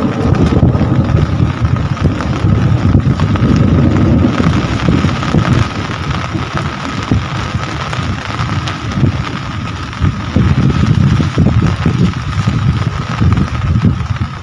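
Steady rain falling, with a heavy, uneven low rumble beneath it like wind buffeting the microphone, and a thin steady whine running through. The rumble eases off for a few seconds midway, then comes back.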